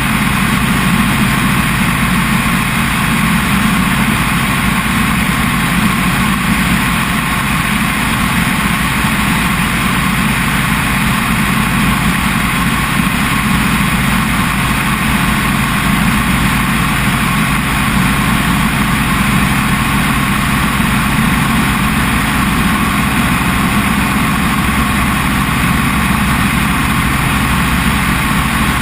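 Helicopter engine and rotor running steadily in flight, a loud constant drone with no change.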